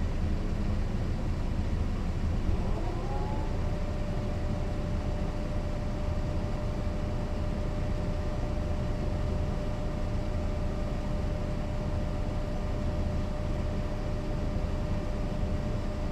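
Mercedes-Benz O 405 NÜ city bus heard from on board, its engine and drivetrain running with a steady low rumble. About three seconds in, a thin whine glides up and then holds at one steady pitch.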